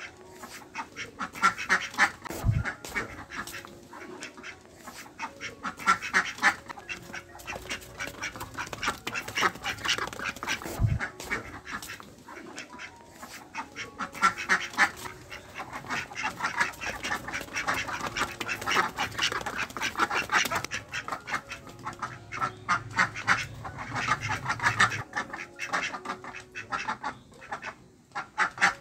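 A flock of ducks quacking, with many short calls overlapping in irregular clusters.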